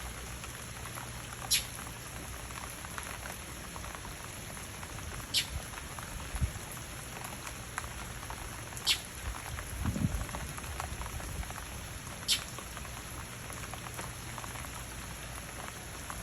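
Steady rain falling, with a sharp tick landing close about every three to four seconds and a dull low thump about ten seconds in.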